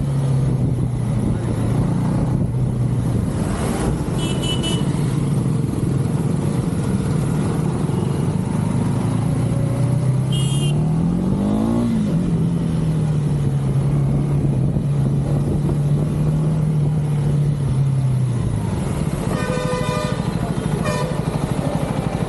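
Third-generation KTM 390 Duke's single-cylinder engine running under way with wind noise; about halfway through it revs up and drops back, and near the end its note falls away. Vehicle horns toot briefly a few times, the longest near the end.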